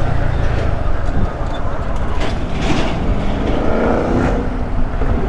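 Honda Grom's small single-cylinder engine running under way, with a rise in pitch a little past halfway as it accelerates, over steady wind and road noise.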